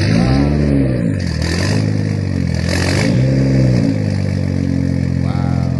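Car engine with a loud exhaust revved twice, pitch rising and falling each time, then settling to a steady idle about four seconds in.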